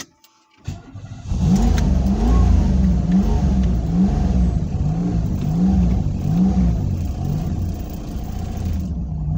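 Turbocharged Pontiac Fiero engine cranking and catching about a second in, then running with the revs rising and falling over and over as the throttle is blipped to keep it from stalling.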